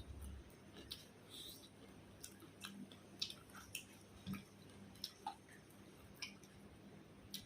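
Faint sounds of a person chewing food, with scattered small clicks and smacks from the mouth.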